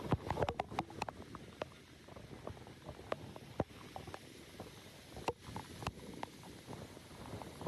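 Heavy rain and floodwater: a low rumble of water with many scattered sharp taps and splashes.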